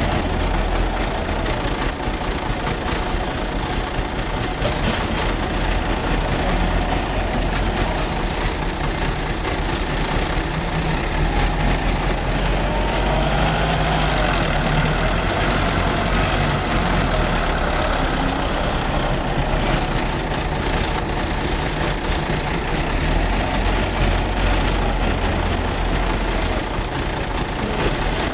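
Massey Ferguson 385 tractor's diesel engine running steadily, its note rising and a little louder for a few seconds around the middle.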